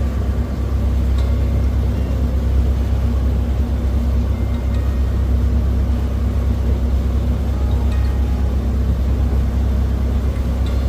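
Tour boat's engine running steadily under way, a constant low drone heard on board.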